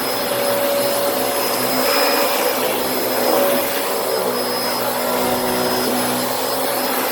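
Vacuum cleaner running steadily: a motor whine over rushing air.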